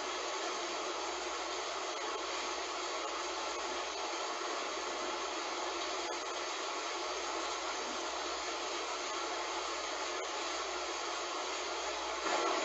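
Heavy rain falling steadily, an even hiss that swells slightly near the end.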